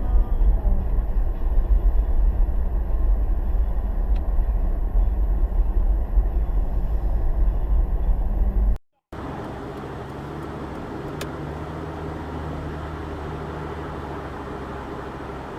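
Road noise and engine hum of a moving car heard from inside the cabin: a heavy, steady low rumble that cuts off abruptly about nine seconds in, followed by a quieter, steadier engine and road hum.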